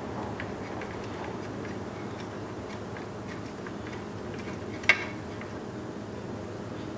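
Light, irregular ticks and clicks over a steady hum, with one sharp click about five seconds in.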